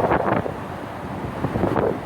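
Wind buffeting the microphone on an open ship's deck, gusting louder at the start and again near the end.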